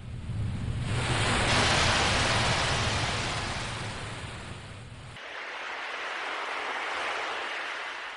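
Ocean waves washing in, a rushing surge that swells twice, with a low rumble under the first surge that cuts off abruptly about five seconds in.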